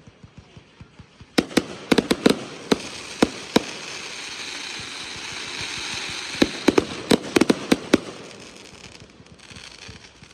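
Consumer fireworks bursting in a display: two rapid clusters of sharp bangs, a few seconds apart, over a steady hiss, with faint small pops at the start.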